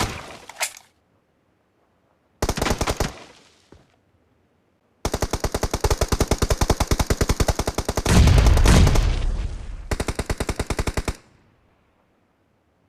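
Video-game automatic gunfire: a short burst of rapid shots about two and a half seconds in, then a long burst from about five seconds in that stops just after eleven seconds. A heavy low boom comes about eight seconds in, the loudest moment.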